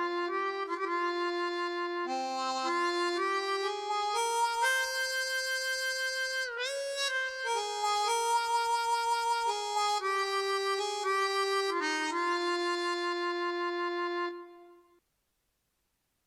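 Korg Triton TR keyboard playing a reedy wind-instrument patch from an Isan sound set: a melody of held, overlapping notes over lower sustained notes, with a pitch bend about six and a half seconds in. It fades and stops about fifteen seconds in.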